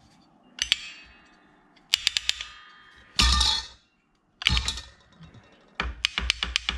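Small metal parts of a Polaris Ranger park brake ratchet assembly clicking and clacking as they are handled and worked by hand. The clicks come in several quick groups, with a louder rattling scrape about three seconds in and a fast run of clicks near the end.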